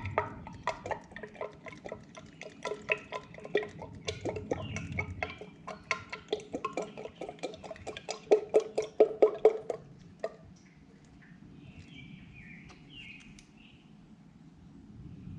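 0W-20 motor oil glugging as it is poured from a bottle into the engine's oil filler, a rapid run of gurgles that grows louder and more regular, then stops about ten seconds in. Faint bird chirps follow.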